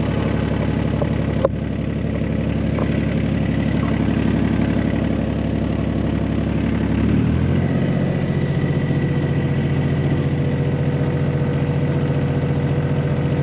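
1985 John Deere 1050 tractor's diesel engine running steadily while still warming up from a cold start. A single sharp knock comes about a second and a half in, and the engine's note shifts about seven seconds in.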